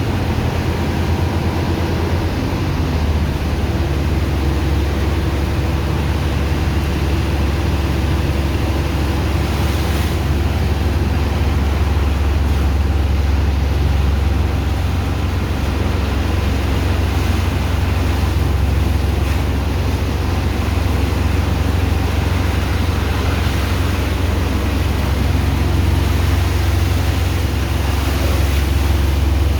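Sand dredger's engine and pump running steadily, a deep low drone over a rushing wash of water.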